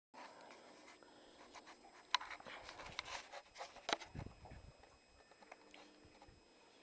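A Chihuahua stirring: faint scratchy rustling and clicks, the sharpest about two seconds in and a cluster of them around three to four seconds in.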